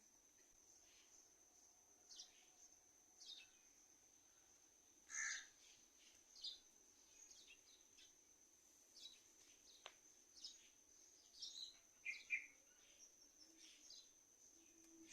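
Birds chirping in the early morning: short, separate high chirps and calls from more than one bird, scattered irregularly, the loudest about a third of the way in and again near the end. A faint, steady, high-pitched tone runs underneath throughout.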